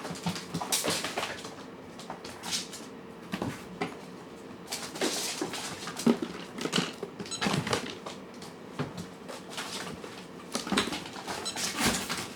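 Cats eating from their food dishes: irregular clinks, taps and clatters of the dishes, coming in clusters every second or so.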